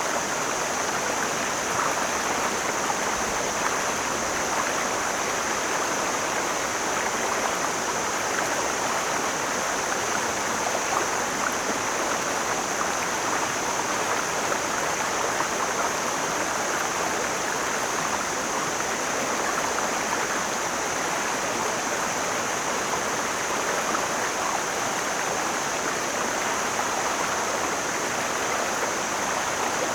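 Mountain stream flowing over rocks: a steady, even rush of water with a high hiss running through it.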